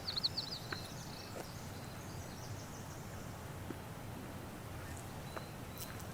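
Quiet forest ambience: a small bird gives a quick run of high chirps right at the start, then a faint steady outdoor hush with a few soft ticks and another brief high call near the end.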